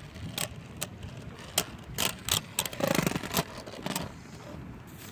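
Spinning Beyblade tops clashing in a plastic stadium: irregular sharp clacks, several a second at times, over a steady rush of wind.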